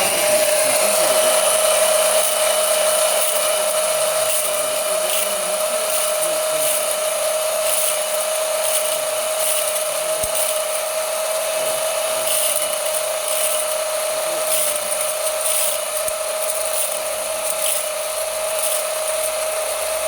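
A grain-processing machine starting up and running steadily with a high whine and a hiss, with scattered faint ticks throughout.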